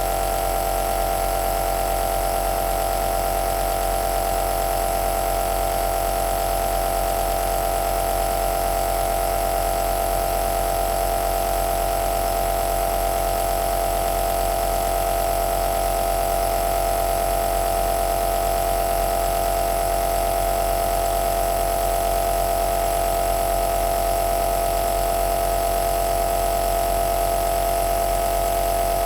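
Compressor nebuliser (aerosol machine) running steadily: a constant motor-and-pump hum dominated by one mid-pitched tone, with a hiss of air over it.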